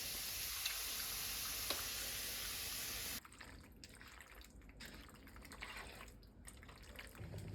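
Steady hiss of running water with two faint ticks, cutting off suddenly about three seconds in; after that only faint scattered small sounds.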